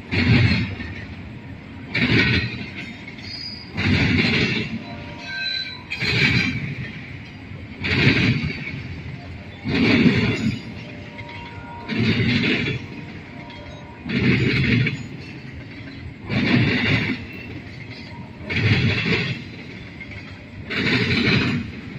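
Freight train cars rolling past, their wheels clacking over a rail joint in a loud burst about every two seconds, over a steady rumble.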